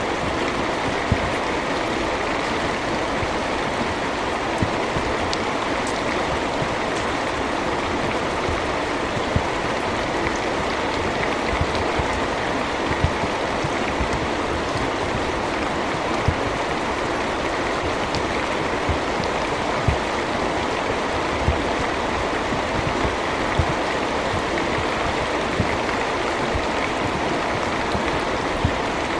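Steady rainfall, an even hiss, with single louder drop taps every few seconds.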